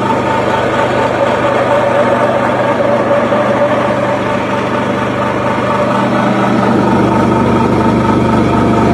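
A motor-driven machine running steadily: a constant hum with several steady tones, getting a little louder about six seconds in.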